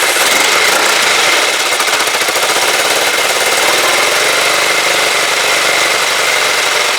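Freshly rebuilt Kawasaki GPZ500S parallel-twin engine running steadily just after starting, with a rapid, even, rattly beat.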